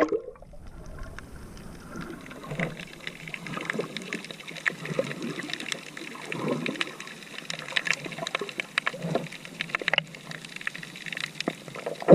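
Sea water splashing and trickling close to the microphone, with many small irregular splashes and clicks.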